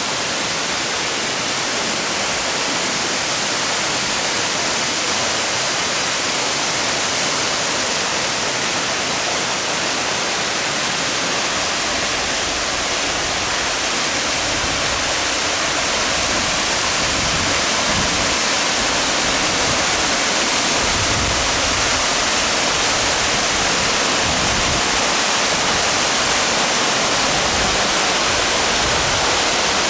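Waterfall rushing: a steady dense hiss of falling water that grows slightly louder toward the end, with some low rumble in the second half.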